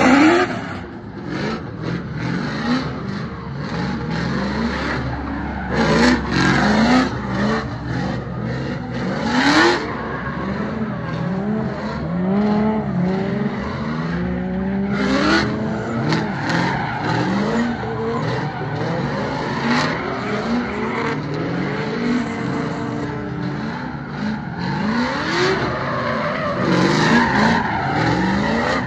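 LS V8 engine in a BMW E82 drift car revving up again and again, with tire squeal, as the car does donuts and figure eights to warm up its tires.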